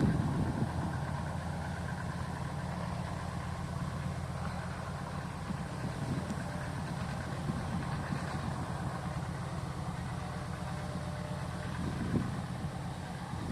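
Fishing boat's engine idling steadily, a constant low hum.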